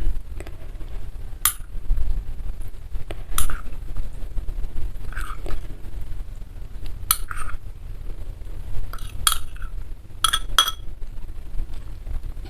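A metal spoon clinking against a ceramic bowl and dishes as bakso soup is dished out and stirred: separate short clinks every second or two, some in quick pairs.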